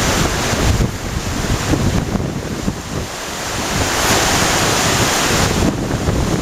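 Strong typhoon wind gusting and buffeting the microphone over a steady rushing hiss, the rush swelling about four seconds in and easing near the end.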